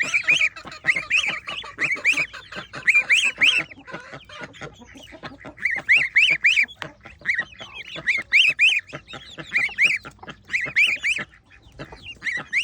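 Domestic geese honking in repeated clusters of short calls, with chickens clucking among them.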